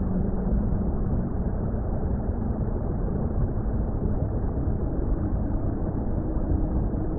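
Steady, muffled underwater-style water rumble, low and even with nothing bright in it, over a faint low droning tone.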